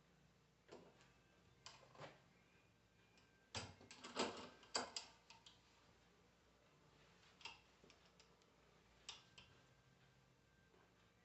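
Scattered light clicks and knocks of metal parts and tools being handled while an alternator bearing is set up for pressing in. There is a quick cluster of knocks about three and a half to five seconds in; otherwise it is nearly silent.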